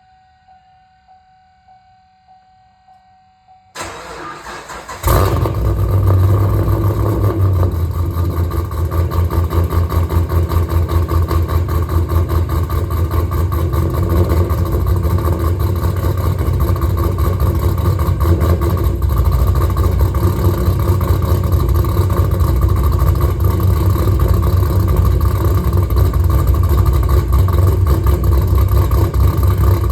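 A faint repeating chime, then the starter cranks about four seconds in and the cammed 2013 Camaro SS's 6.2-litre V8 fires a second later. It settles into a loud, choppy, pulsing cold-start idle through long-tube headers, X-pipe and Spintech mufflers with no catalytic converters.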